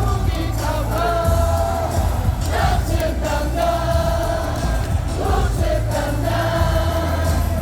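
Baseball stadium crowd singing a cheer song in unison over loud stadium loudspeaker music with a heavy bass line.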